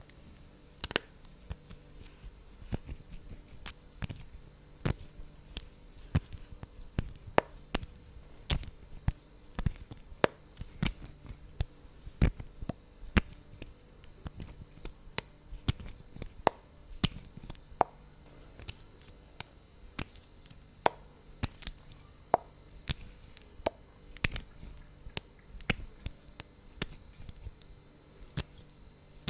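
Close-miked mouth sounds from lips coated in thick lip gloss: sticky lips smacking and parting in many short, sharp clicks, irregularly spaced, one or two a second.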